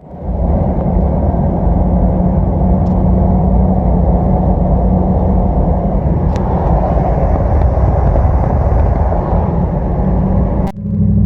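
Dodge Ram pickup truck driving, its engine running steadily under road and tyre noise, with a few faint clicks. Near the end the sound changes abruptly to a smoother, steadier engine hum.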